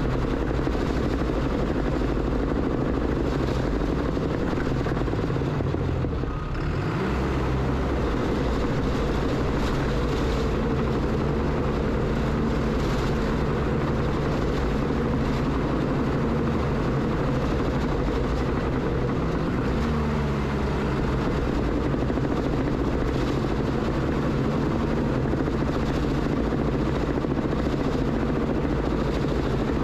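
Diesel engine of a piece of heavy earthmoving equipment running steadily under work, with a brief dip and change in engine note about six seconds in.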